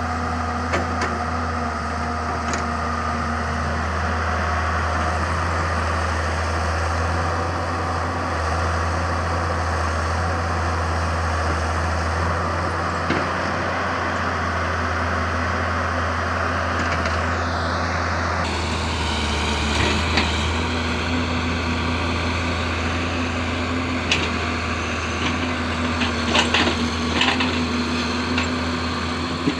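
Samsung excavator's diesel engine running steadily at work, with a low, even hum. A few sharp knocks come near the end.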